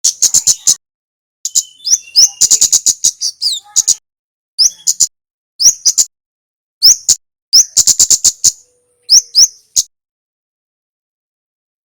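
Kemade (kemlade) songbird calling in a loud, high-pitched series of rapid ticking chatters, broken by short rising chirps and brief pauses.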